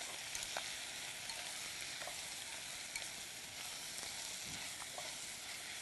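Chicken pieces sizzling in hot oil in a pot as they are stirred with chopsticks: a steady sizzle with a few faint ticks.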